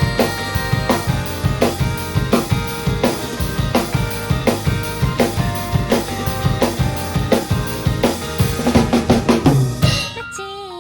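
Drum kit played along with a Japanese pop-rock band track: a steady beat of kick drum, snare and cymbals under the band's chords. About ten seconds in the drums and full band drop away, leaving a few held notes.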